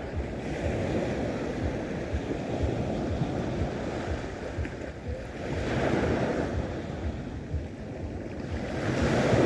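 Sea waves washing onto the shore, swelling twice, at about six seconds in and again near the end, with wind buffeting the microphone.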